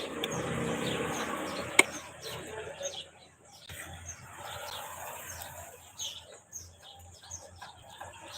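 Small birds chirping, many short high calls throughout, over a noise in the first two seconds and a sharp click a little under two seconds in.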